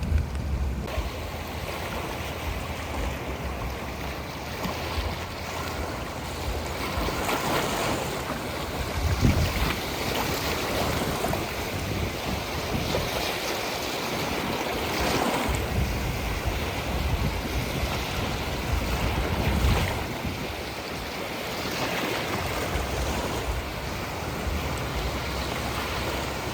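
Sea waves washing onto a shore, swelling and breaking every few seconds, with wind buffeting the microphone.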